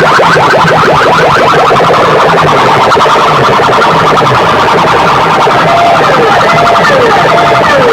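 Competition DJ sound system playing an electronic track built from siren and alarm effects at high volume: rapid rising warble sweeps, several a second, give way about six seconds in to slower falling siren tones, over a pulsing low beat.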